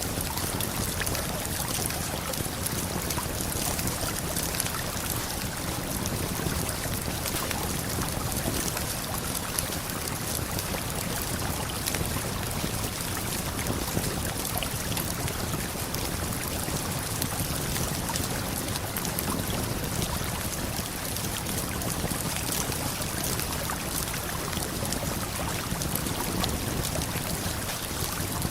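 Steady rush of a waterfall and flowing river, with small crackles and pops of a campfire scattered through it.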